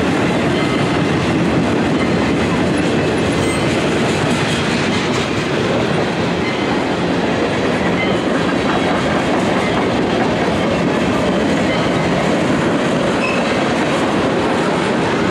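Freight train of boxcars and tank cars rolling past, its steel wheels running on the rails with a steady rumble and clatter.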